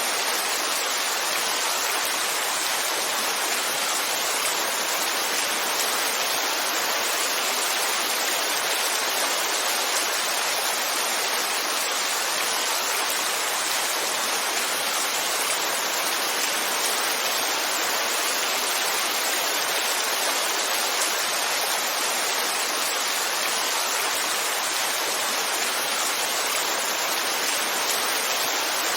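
Heavy rainfall, a dense, steady hiss with no single drops or changes standing out.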